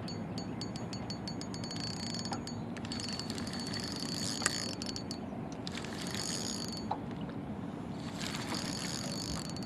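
Fishing reel working while a hooked fish is fought, its gears and click mechanism ticking rapidly and then whirring in several runs with short breaks.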